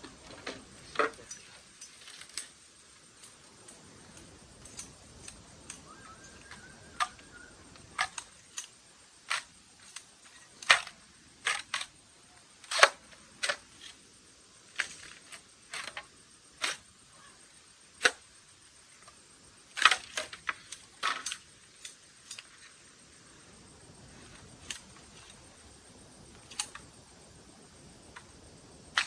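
A series of sharp clicks and snaps at irregular intervals, sometimes two or three in quick succession, thinning out in the last few seconds.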